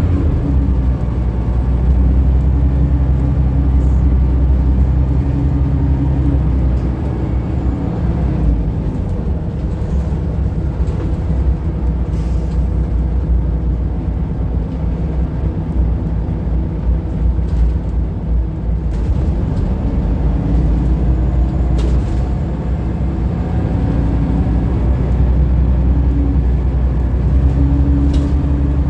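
Scania L94UB bus running steadily, a low engine drone whose pitch rises and falls slowly as it drives, with a few faint clicks.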